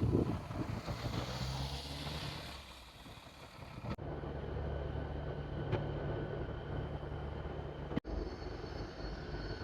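A vehicle engine running with a steady low hum, in short clips spliced together: the sound changes abruptly twice, about four and eight seconds in.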